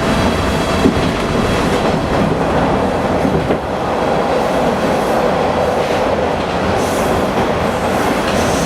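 Inside a Toronto Bombardier T1 subway car running between stations: a steady rumble of wheels on the rails, with a faint steady tone over it.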